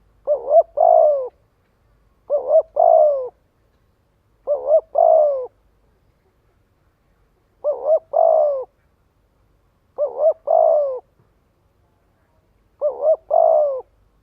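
Spotted dove cooing, six calls about two seconds apart. Each is a quick double note followed by a longer note that drops in pitch at the end. It is the fast decoy coo used to stir up and call in wild doves.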